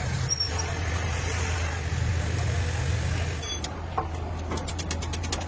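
A machine running with a steady low hum under an even noisy haze, with a short click about three and a half seconds in.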